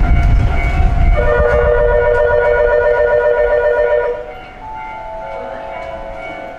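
Shin-Keisei 8800 series electric train running past with a heavy rumble that drops away about four seconds in. A loud, wavering musical tone is held over it for about three seconds, and other steady tones follow.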